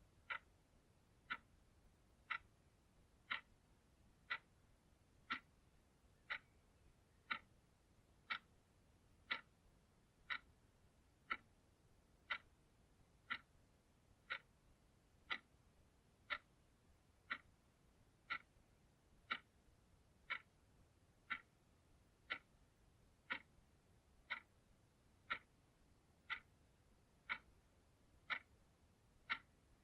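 Clock ticking steadily, one short, sharp tick about every second.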